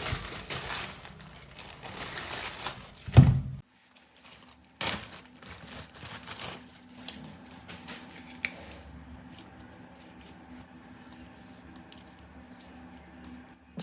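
Crinkling, clicking handling noise with a loud thump about three seconds in, then a sudden drop to scattered light clicks and taps.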